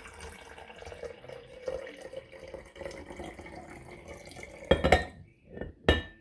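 Water running into a glass mason jar as it is filled, followed near the end by two sharp knocks of glass or dishware being handled.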